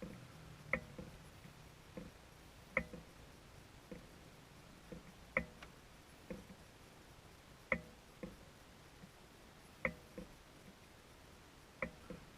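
A series of faint, sharp clicks: a louder one roughly every two seconds, with softer ones in between.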